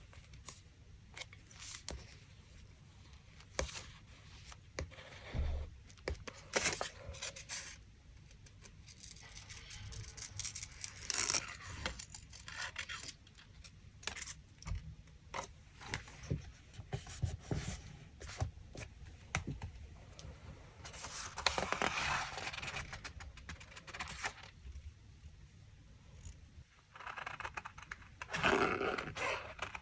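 Paper and craft materials being handled for a collage: rustling and scraping of paper with scattered small taps and clicks, and several longer stretches of rustling.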